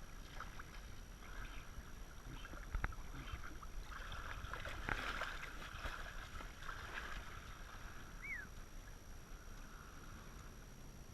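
Faint splashing and trickling of water from a kayak paddle working the water, swelling a little in the middle.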